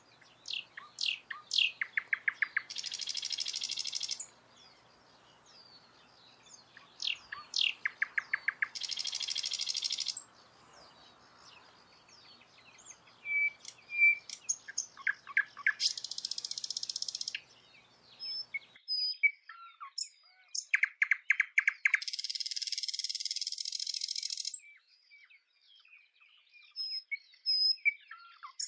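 Songbird singing a repeated phrase about four times: a few quick high chirps, a fast trill, then a long harsh buzzy note. A faint background hiss drops out about two-thirds of the way in.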